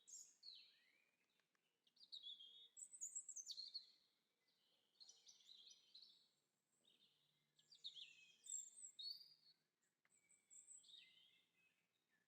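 Faint songbird song: short phrases of high chirps and warbles, repeated every two to three seconds over a low background hiss.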